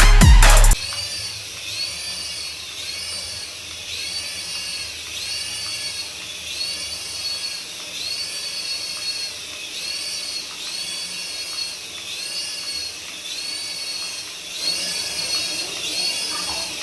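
Small electric toy motor whining at a high pitch that rises and falls about once every second, after a music track cuts off just under a second in.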